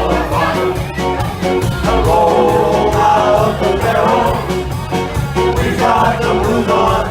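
Live polka-style band music on accordion, saxophones, electric guitar, bass guitar and drum kit, with a steady oom-pah bass and drum beat under the melody.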